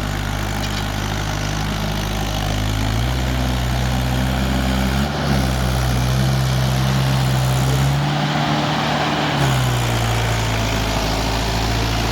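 Mahindra XP 475 tractor's diesel engine running, its speed stepping up about three seconds in and shifting a few more times after.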